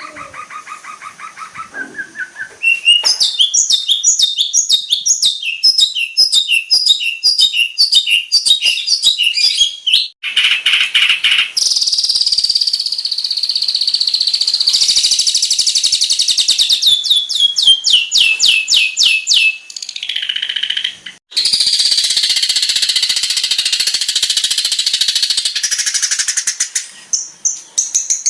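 Bird-song training track (masteran) for long-tailed shrikes. A rapid, varied run of high chirps, fast repeated notes, trills and buzzy phrases, each phrase switching abruptly to the next.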